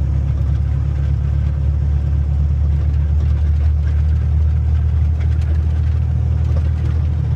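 Tractor-trailer's diesel engine running steadily under way, a loud low drone with a faint whir of road noise above it.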